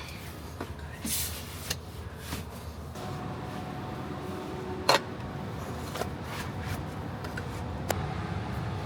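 Steady low rumble of a car in motion, heard from inside, with a few sharp clicks and knocks.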